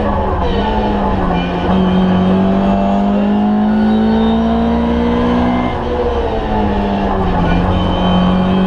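Ford Escort Mk2 1300's four-cylinder engine under hard use, heard from inside the cabin. The revs climb steadily for about four seconds, drop suddenly about six seconds in, then hold steady.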